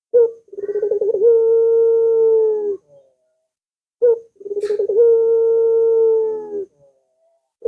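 Puter dove (domesticated ringneck dove) cooing twice, each call a short note, a quick fluttering trill, then a long steady coo that sags slightly at the end. A brief click sounds between the two calls.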